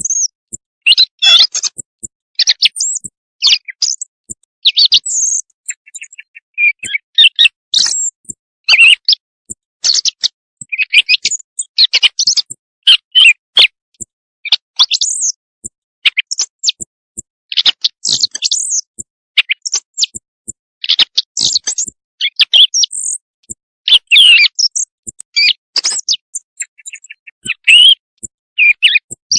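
A recorded bird song played as a night-time hunting lure call. It is a fast run of short, high, varied chirps and trills, each phrase under a second, with sharp silences between them. The uploader titles it a quail's night call.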